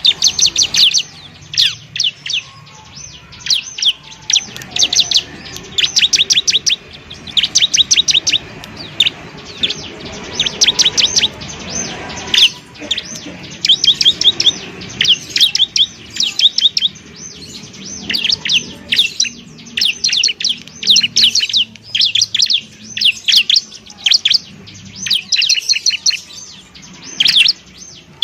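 Bar-winged prinia (ciblek) singing: bursts about a second long of very rapid, high, dry notes, repeated over and over with short pauses.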